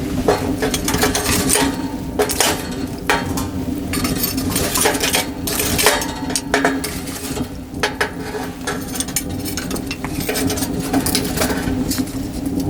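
Metal cookware and utensils clinking and knocking in irregular, frequent strikes over a steady low hum.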